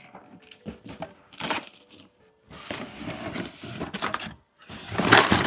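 Cardboard box and plastic packaging being opened and handled: irregular crackling, tearing and rustling, with the loudest rustle about five seconds in.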